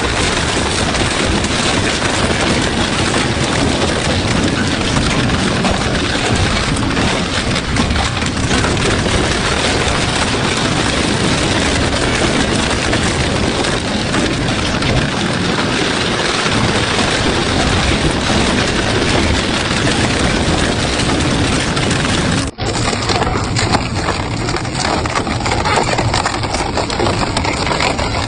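Industrial double-shaft shredder running under load, its cutters grinding and tearing scrap material with a dense, continuous crunching and cracking. The sound drops out for an instant about three quarters of the way through, then carries on just as loud.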